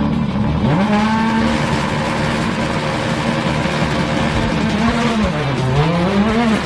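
Rally car engine running at high revs on a tarmac stage. The revs climb about a second in and hold steady, then drop and climb again near the end.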